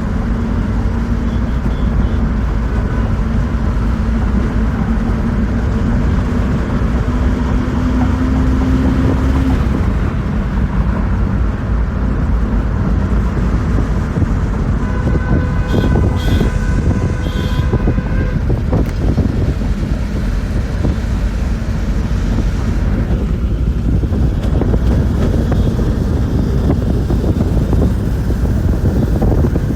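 Steady low rumble of a moving bus heard from inside the cabin: engine and road noise. A tone rises slightly in pitch over the first ten seconds and then stops. Around the middle comes a brief high-pitched sound with several tones, lasting about three seconds.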